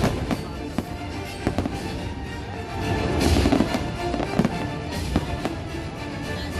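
Fireworks bursting and crackling, many sharp bangs in quick succession, over the show's music playing through loudspeakers; the bursts build to a louder cluster about three seconds in.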